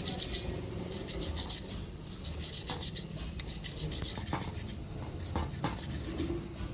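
Rapid rasping strokes from a part being worked by hand, with a few sharper clicks in the second half.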